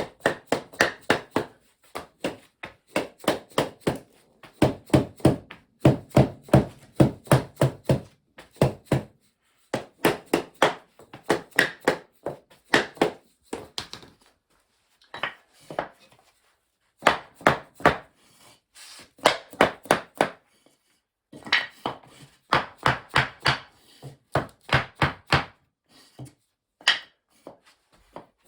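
Hammer knocking a compressed-wood sub-floor tile into place, striking in quick runs of about three blows a second with short pauses between the runs.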